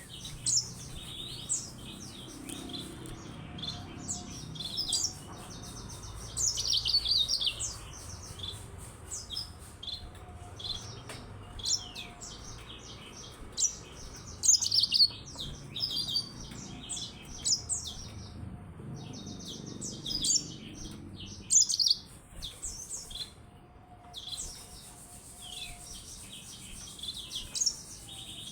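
Yellow-fronted canary (Mozambique canary) singing: quick runs of high chirps and trills in phrases broken by short pauses.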